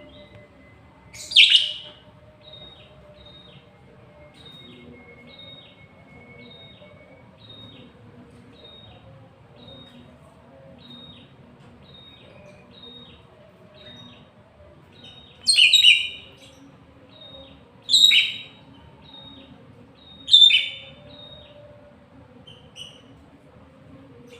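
Lovebird song with a steady run of short, high chirps about one and a half a second. Four much louder harsh, shrill calls break in, one about a second in and three close together in the last third.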